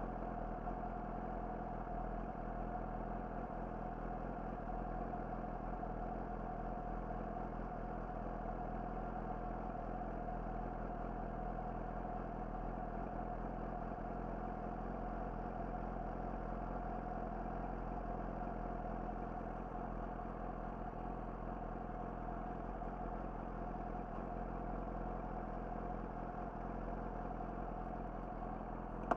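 Yamaha YZF-R6's inline-four engine through an Akrapovic slip-on exhaust, running steadily at a constant low engine speed with no revving.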